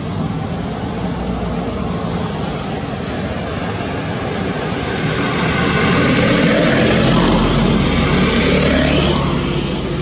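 A motor vehicle passing, growing louder to a peak about two-thirds of the way through, then fading.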